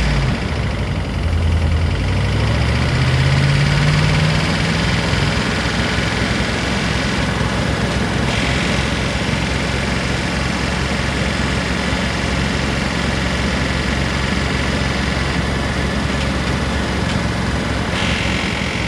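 P38 Range Rover engine running at idle, its speed rising over the first few seconds and then holding steady. The owner suspects a sticking valve or lifter.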